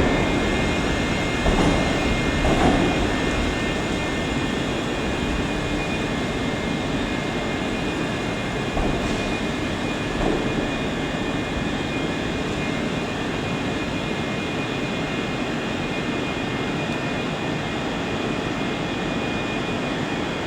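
Steady hum and hiss of a Scotrail Class 380 electric multiple unit standing at the platform, with a few light knocks in the first three seconds.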